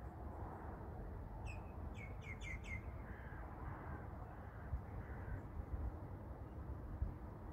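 A bird calling: a quick run of about five short, sharp calls a second or so in, then a few fainter calls, over a steady low background rumble.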